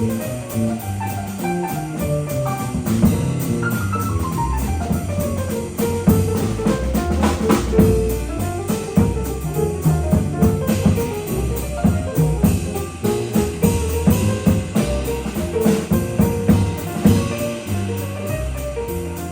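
A jazz quintet of guitar, alto saxophone, piano, bass and drum kit playing an up-tempo piece. A fast single-note line runs up and down over a stepping bass line and busy drums.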